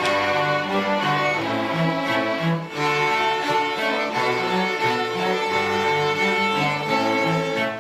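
Children's school orchestra playing, with bowed strings to the fore: sustained upper notes over a bass line that steps from note to note.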